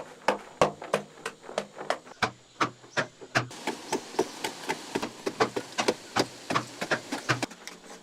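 Rapid, repeated knocks of a hand tool striking, about three or four blows a second, steady throughout.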